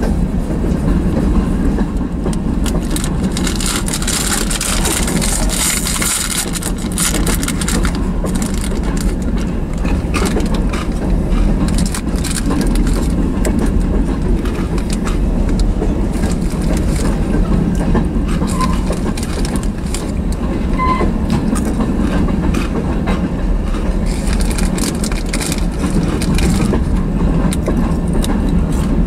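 Freight train of covered hopper and tank cars rolling past close by: steady noise of steel wheels on rail with rapid clicking over the joints. A brighter hiss comes in a few seconds in and again near the end.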